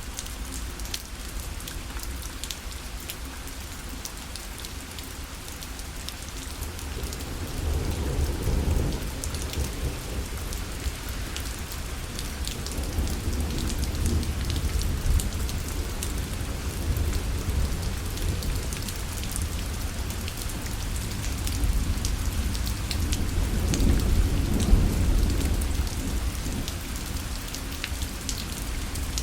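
Rain falling on a parasol, with fine drop ticks throughout. Low thunder rumbles swell up twice, about a quarter of the way in and again near the end.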